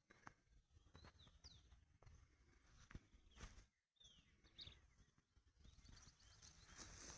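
Near silence: faint outdoor ambience with a few short, high bird chirps scattered through it.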